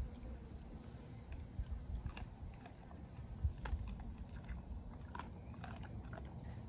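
A dog chewing and crunching its food: irregular sharp crunches, a few close together near the middle and again about two-thirds of the way through.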